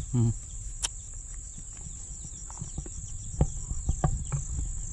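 Steady high-pitched chorus of crickets, with scattered clicks and rustles of leaves and twigs as branches are pulled by hand.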